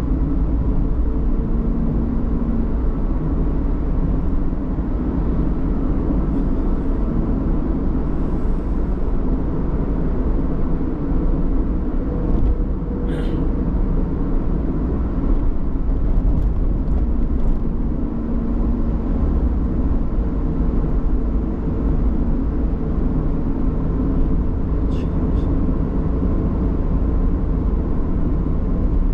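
Car driving at a steady speed: a steady low rumble of engine and tyres on the road, with two brief high ticks, one about midway and one near the end.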